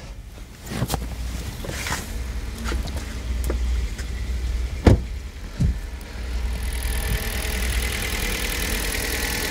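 Hyundai Solaris 1.4 petrol engine idling on a cold start at raised revs, freshly filled with Toyota 5W-40 oil and being checked for its cold-start knock. A few thumps sound over it, the loudest about five seconds in, and the engine grows louder and brighter from about seven seconds in.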